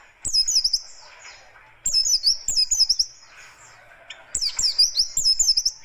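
A white-eye (pleci, Zosterops) singing three bursts of its fast, harsh song, each a quick run of sharp high chirps that swoop down and up in pitch.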